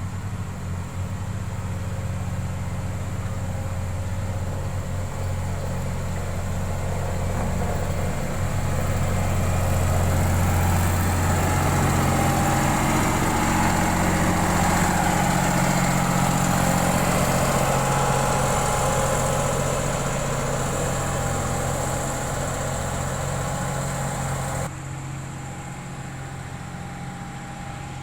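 Heavy-equipment diesel engine running steadily, getting louder through the middle, then dropping suddenly to a quieter engine sound near the end.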